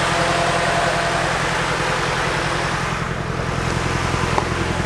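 Nissan 240SX S14's SR20DET turbo four-cylinder engine running steadily with an even low exhaust pulse, held at about 2,000 RPM on the throttle.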